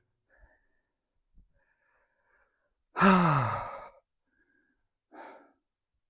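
A man lets out one loud, voiced sigh about three seconds in, falling in pitch, followed by a faint breath a couple of seconds later.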